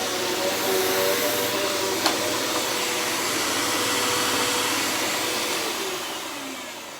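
Hoover Elite Rewind upright vacuum cleaner running steadily, its motor and brush roll whirring, freshly cleaned out after a clogged hose and dirty filter. There is a single click about two seconds in. About five and a half seconds in it is switched off, and the whine falls away as the motor winds down.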